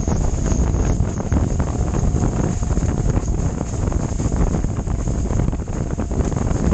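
Strong wind buffeting the microphone of a camera out windsurfing: a loud, steady, low rumbling rush, with a faint high whine running under it.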